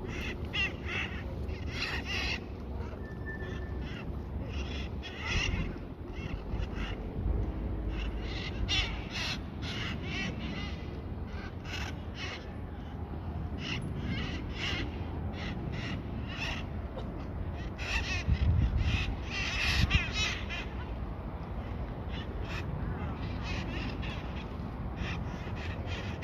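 Small parrots (parakeets) calling: short, harsh squawks repeated in quick, overlapping bursts. A low rumble joins the loudest stretch about two-thirds of the way through.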